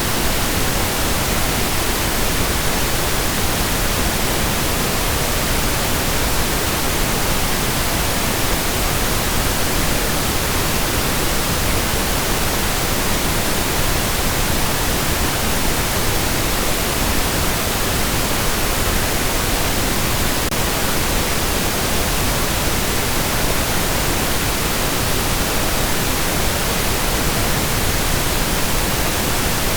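Steady pink noise: an even, continuous hiss across all pitches that does not change.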